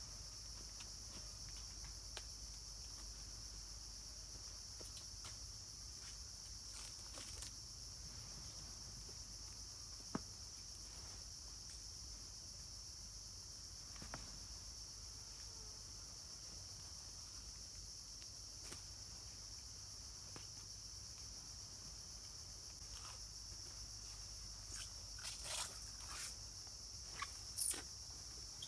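Steady high-pitched drone of forest insects such as crickets or cicadas, with scattered faint clicks and a few louder short rustles and crackles near the end.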